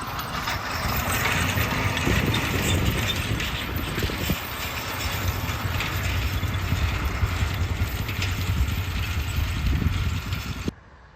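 Fendt tractor's diesel engine running steadily with a low rumble, the sound cutting off abruptly near the end.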